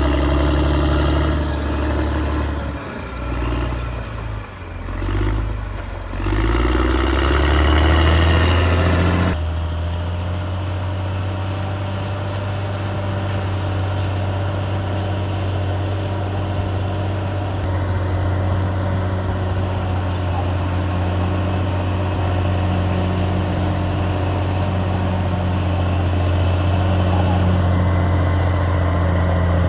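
CAT D6R bulldozer's diesel engine working, rising and falling under changing load for the first several seconds, with a dip about five seconds in; about nine seconds in the sound changes abruptly to a steadier engine drone for the rest.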